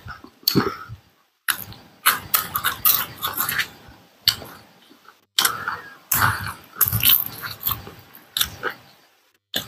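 Close-miked eating sounds: wet chewing and mouth noises from people eating rice and meat by hand, in irregular bursts. The sound drops out completely for a moment about a second in, around five seconds and just before the end.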